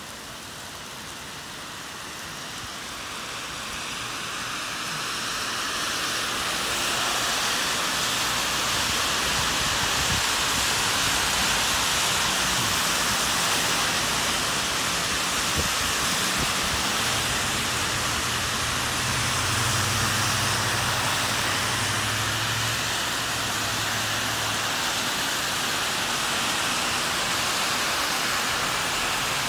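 Heavy rain coming down hard on a street, a steady hiss that grows louder over the first several seconds. A car engine hums low for a few seconds about two-thirds of the way through.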